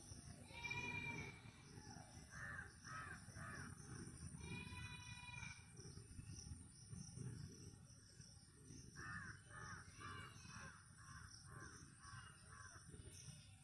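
Faint bird calls: a couple of longer held calls, then two runs of short harsh notes repeated two or three times a second, over a low rumble.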